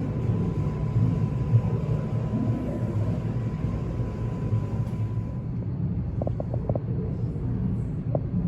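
Steady low rumble of background noise, with a thin steady high tone that stops about five seconds in and a few short faint chirps near the end.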